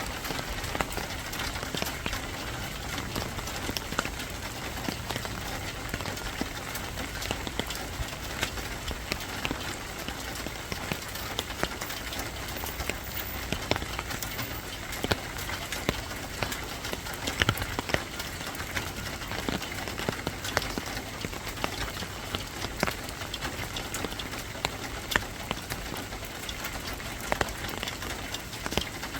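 Steady rain falling, an even hiss dotted with many sharp individual drop hits.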